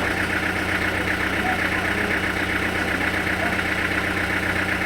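Sawmill machinery running steadily: a constant engine hum with a fast, even buzzing flutter above it.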